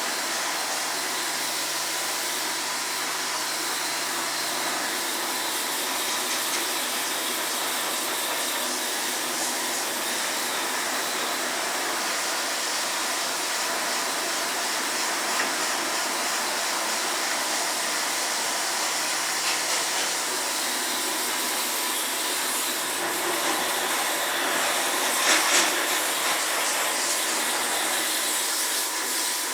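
High-pressure water spray jetting steadily into a Daikin split air conditioner to wash the dust out, a continuous even hiss.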